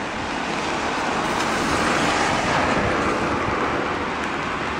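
Road traffic on a wet street: tyre hiss from a passing vehicle that swells to a peak about two seconds in and then eases.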